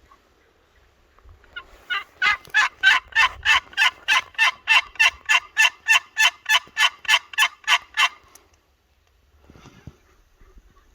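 Turkey yelping: a long, even run of sharp, loud yelps, about four or five a second, that starts about two seconds in and stops a few seconds later.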